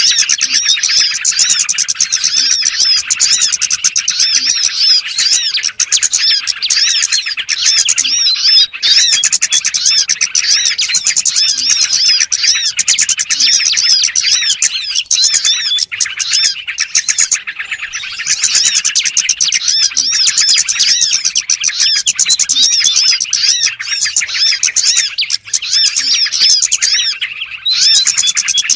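Dense chorus of many small songbirds chirping and twittering without pause, overlapping fast chirps: a recorded lure call (suara pikat) used by Indonesian bird trappers to draw in small birds.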